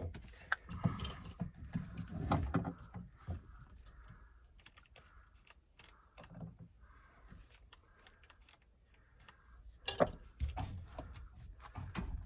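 Scattered clicks, knocks and rattles of tools and parts being handled during repair work, busiest in the first few seconds, with a single sharp knock about ten seconds in.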